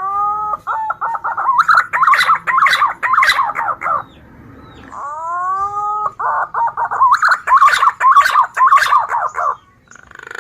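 Green pigeon (punai) calling, the kind of call used as a hunting lure. It gives two phrases about five seconds apart; each opens with a rising whistle and breaks into a quick run of warbling whistled notes.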